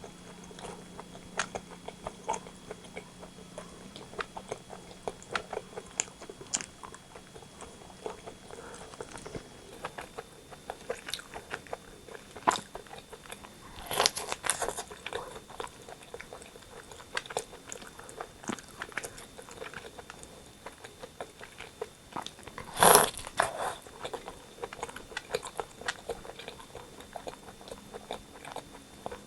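Close-miked eating of rotisserie chicken: biting and chewing with many small wet clicks, and two louder bites or tearing bursts, about halfway through and about three-quarters of the way through.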